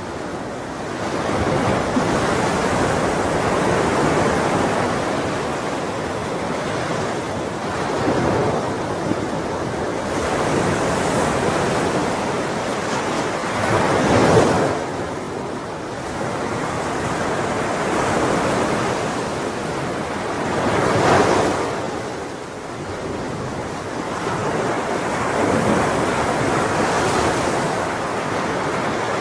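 Ocean waves breaking and washing on the shore in a steady rush that swells and ebbs, with two louder breakers about halfway through and again a few seconds later.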